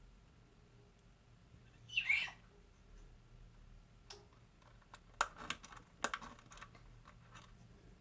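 African grey parrot: one short, scratchy call about two seconds in, then a quick run of sharp clicks about three seconds later.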